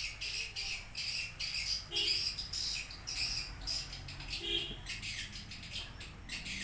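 Swiftlet giving rapid, repeated high chirps, several a second.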